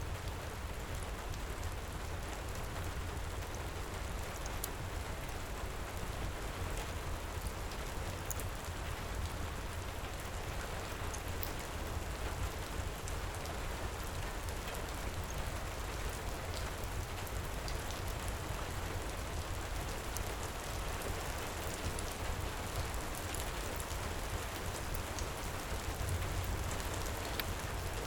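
Heavy rain falling steadily, with a deep low rumble under it. Scattered small sharp ticks and pops run through it, from a wood fire crackling in a stone fireplace.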